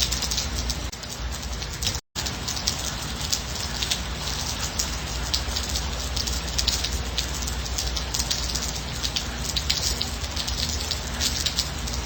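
Steady rain, with a dense patter of individual drops. The sound cuts out completely for a split second about two seconds in, then carries on.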